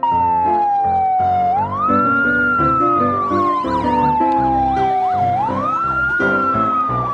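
Siren wailing in two slow rise-and-fall sweeps, with a faster warbling tone layered over it, playing over background piano music.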